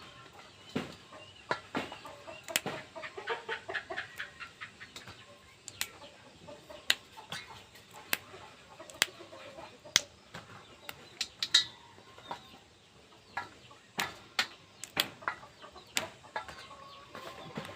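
Irregular sharp clicks and taps, thickest about two to four seconds in, with short clucking calls between them.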